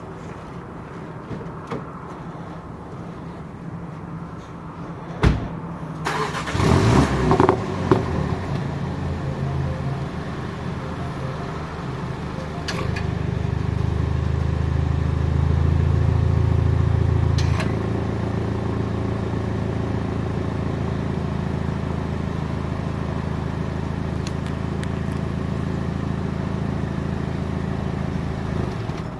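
Cold start of a 2024 Mini Cooper JCW Countryman's turbocharged 2.0-litre four-cylinder: a click about five seconds in, the starter cranks and the engine catches with a brief loud flare, then settles into a steady idle. The idle steps up louder for a few seconds partway through, then drops back to a steady lower idle.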